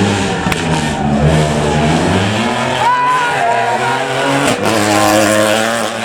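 Rally car engine revving hard, its pitch climbing and dropping several times through gear changes as it is driven flat out along the stage.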